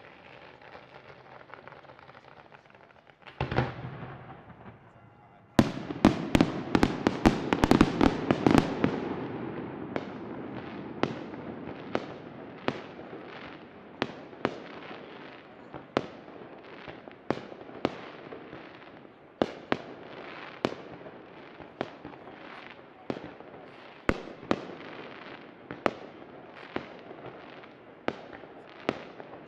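Fireworks display: a single loud bang a few seconds in, then a dense volley of sharp aerial shell bursts, settling into a steady run of bangs about one a second.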